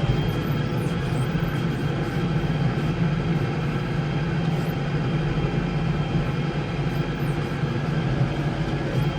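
Case 115U tractor's engine running steadily with a low hum.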